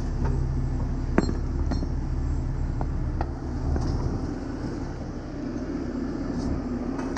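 Heavy truck engine idling steadily, with a few sharp metallic clinks of tools or gear being handled, the loudest about a second in.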